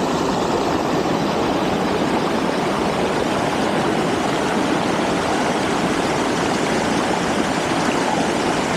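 Steady rushing of water pouring over a river weir, an even, unbroken noise.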